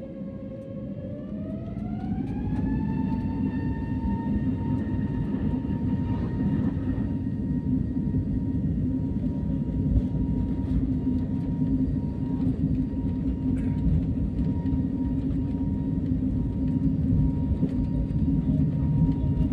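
Airplane jet engines spooling up for takeoff: a whine rises in pitch over the first few seconds, then holds steady at takeoff power over a loud, constant rumble.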